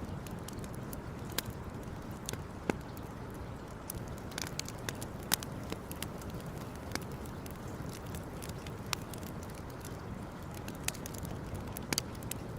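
Campfire crackling: irregular sharp pops and snaps over a steady low background rush.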